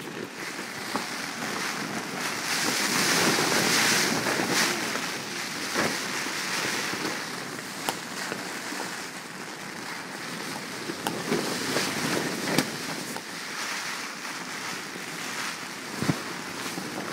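Rainstorm wind and rain battering a tent: a steady rushing that swells in gusts, with a few sharp snaps.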